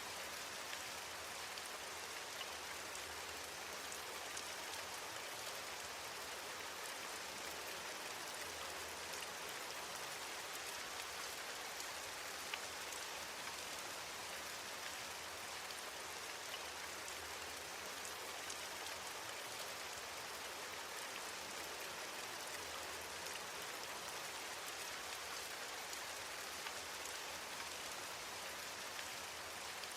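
Steady rain falling, an even hiss of many fine drops with scattered small ticks of drops striking a surface.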